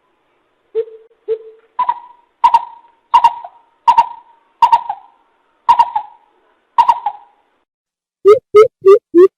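A coucal calling in a series of hollow hoots. It starts with a few soft low hoots, then gives seven higher hoots about one every 0.7 s, and near the end breaks into a fast, loud run of low hoots, about three a second.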